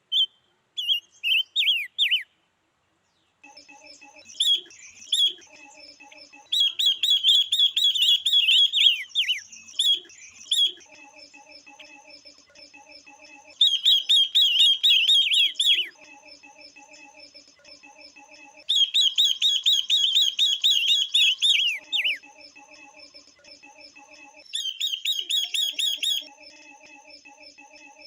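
Female songbirds (female ngũ sắc and female Guilin hwamei) calling, a call track used to stimulate male birds. Four loud bursts of rapid, falling chirps, each lasting two to three seconds, with fainter chirping between them.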